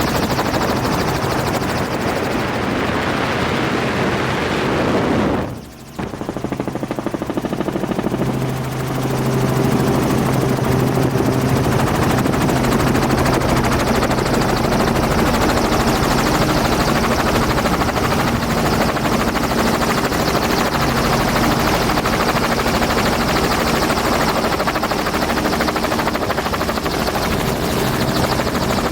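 Dirt bike engine running hard at speed. About six seconds in, the engine note drops sharply and briefly, as when the throttle is shut off, then picks back up and holds a steady pitch.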